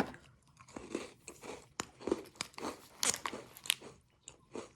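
Close-up crunching and chewing of a crisp Lotus Biscoff caramelised biscuit in the mouth, a string of short irregular crackles.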